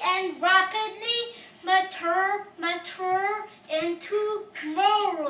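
A young child singing in a high voice, a string of short sung syllables with a few longer held notes.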